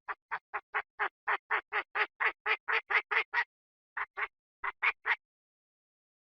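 Chinese francolin calling: a fast run of about twenty short, harsh notes, about four a second, growing louder through the first three seconds, then after a brief break a few more notes that stop about five seconds in.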